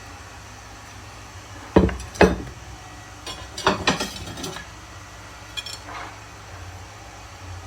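Ceramic dinner plates clinking and knocking as they are handled: two sharp clinks about two seconds in, a quicker cluster of clattering around four seconds, then a lighter clink near six seconds.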